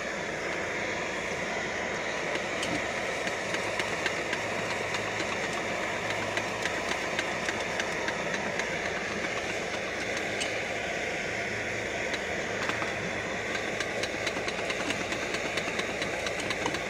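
Backpacking gas canister stove burner hissing steadily at full flame under a canteen cup. Faint ticks and crackles grow more frequent in the second half as the oil and kernels in the cup begin to sizzle.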